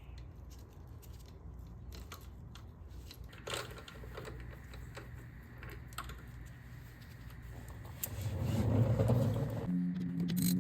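Light clicks and taps of hand tools and metal parts being handled, with a louder knock about three seconds in and a rougher scraping noise near the end. Background music comes in just before the end.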